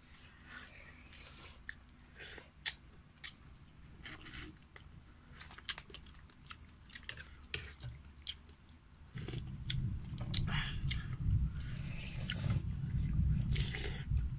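Someone eating tom yum seafood soup with glass noodles: close chewing with small crunches and clicks. About nine seconds in, a steady low rumble starts under the eating sounds.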